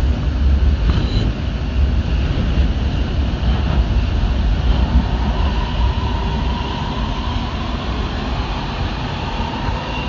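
Metro Red Line subway train running, a heavy steady rumble, with a faint steady whine that comes in about four seconds in and climbs slightly in pitch.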